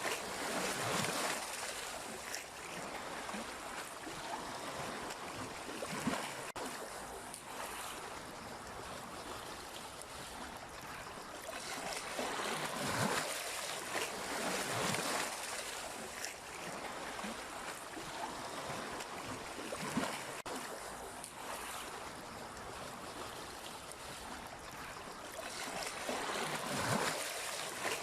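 Sea waves washing continuously, with slow swells of louder surf near the start, around the middle and again near the end.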